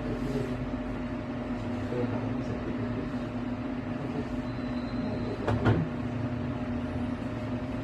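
A steady machine hum holding a constant low pitch, with two quick knocks about five and a half seconds in.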